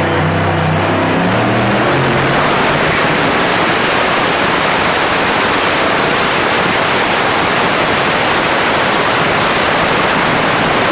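Pulling truck's engine running hard under load, a loud steady noise; stepped engine tones are heard in the first couple of seconds before they blur into an even wash.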